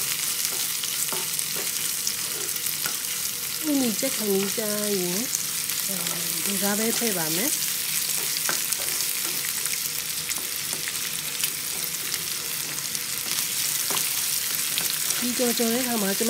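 Prawns, carrot slices and garlic sizzling in hot oil in a pan while a spatula stirs them, with scattered clicks and scrapes of the spatula against the pan. A voice is heard briefly twice in the middle.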